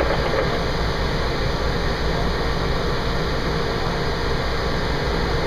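Fire engine running, heard from inside the cab: a steady low engine rumble under an even hiss of noise.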